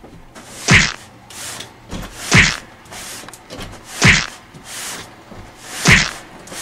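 Four heavy thuds at an even pace, about one every second and a half to two seconds, with softer rustling sounds between them.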